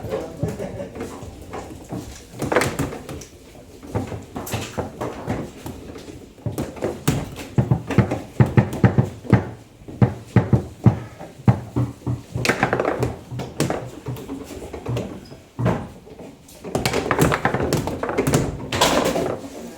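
Table football being played: sharp clacks of the ball against the plastic figures and table walls, with rods knocking, coming in a quick flurry of strikes in the middle and in clusters near the end.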